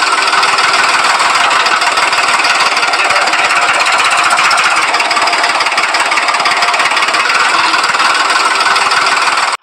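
Miniature diesel engine of a homemade water pump running at a steady speed with a fast, even knocking rattle.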